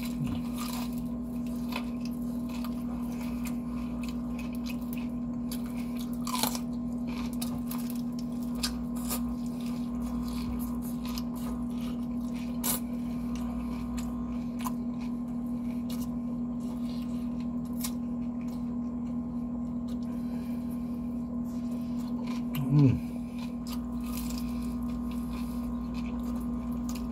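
Crispy fried chicken bitten and chewed close to the microphone: a run of crunches and wet chewing clicks over a steady low electrical hum. Near the end there is one short, loud voiced sound from the eater.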